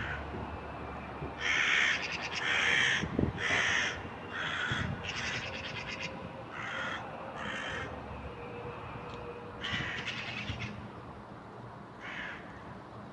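Crows cawing in a string of short, harsh caws, about seven over the first eight seconds and two more later. The crows are mobbing a cat.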